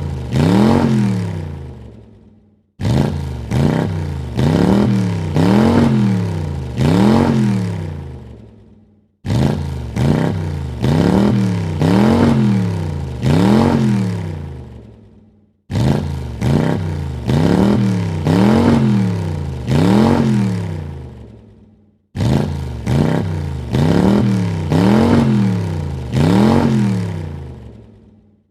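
Car engine revved in short blips, about four rises and falls in pitch per burst, each burst dying away into a brief silence before the same sequence starts again, four times over.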